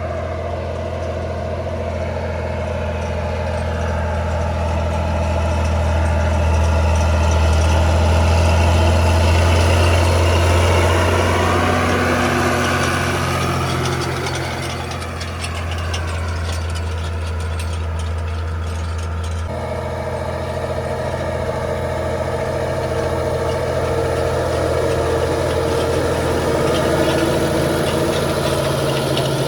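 Ford 8210 tractor's six-cylinder diesel engine running steadily under load while pulling harrows. It is loudest about a third of the way in, its pitch bends around the middle, and its tone changes abruptly about two-thirds of the way through.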